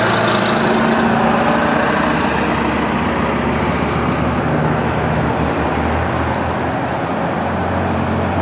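Loud street traffic, vehicle engines and tyres going by close at hand, a little louder at first and easing slightly.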